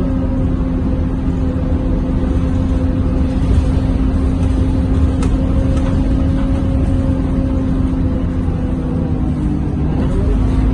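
Scania K230UB bus's diesel engine and drivetrain heard from inside the passenger cabin, running at a steady pace over low road rumble with a steady hum; the hum rises slightly in pitch near the end.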